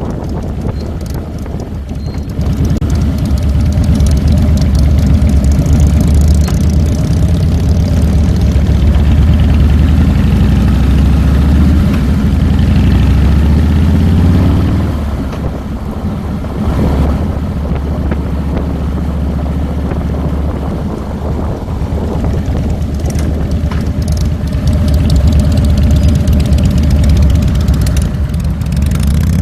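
Harley-Davidson Fat Boy's air-cooled V-twin engine heard from the handlebars while riding. It pulls harder from about two seconds in, eases off around the middle, then pulls again near the end.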